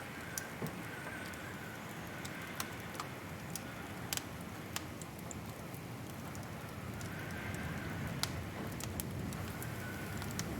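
Wood fire crackling in a fireplace: scattered sharp pops and snaps over a steady low rushing of the flames.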